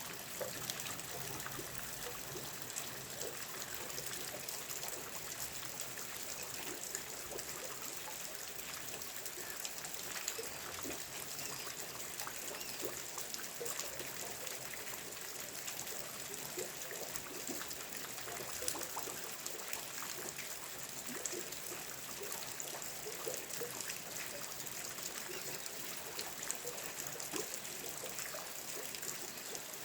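Steady rain falling, with many small sharp ticks of individual drops scattered through it.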